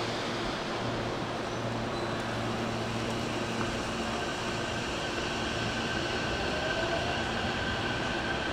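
Hankyu electric train running in the station: a steady rumble and hum, with a high thin whine that comes in about four seconds in.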